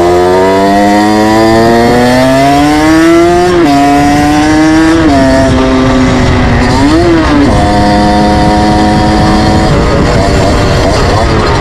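Moped engine running under way, its note changing with the throttle. The pitch climbs steadily for about three and a half seconds and drops suddenly. It then wavers, swells and falls once, holds steady for a couple of seconds, and wavers again near the end.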